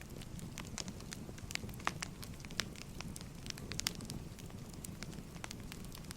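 Wood fire crackling: burning firewood gives irregular sharp pops and snaps, several a second, over a steady low rumble of the flames.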